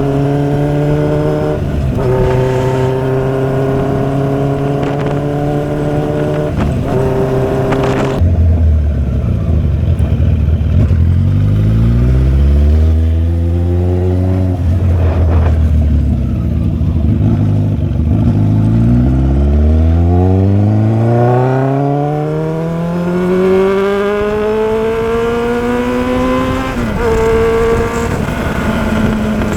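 Motorcycle engine under way, holding a steady pitch, then dropping in pitch about eight seconds in as it slows. It then accelerates again with its pitch rising in several long sweeps through the gears, the longest climb starting about two-thirds of the way through.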